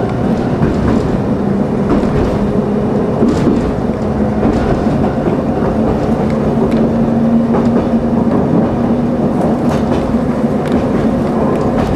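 Kumamoto Electric Railway 5000-series ('Green Frog') electric railcar running along the line, heard inside the driver's cab: steady running noise with a held hum, and the wheels clacking over rail joints every second or two.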